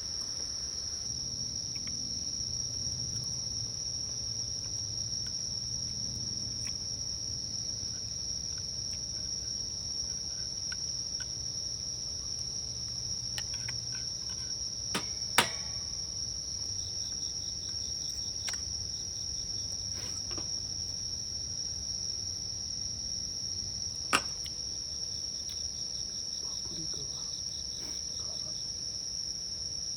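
Insects chirring as one steady, high-pitched drone, with two sharp clicks, one about halfway through and one later.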